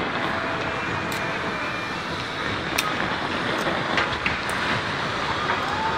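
Fireworks going off in quick succession: a steady rumble of bursts with sharp cracks scattered through it and a few faint whistles.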